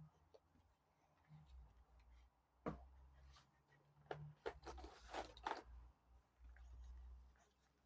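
Near silence broken by a few faint clicks and rustles of small plastic toy figures being handled and set in place, with one click about three seconds in and a cluster of them about a second later.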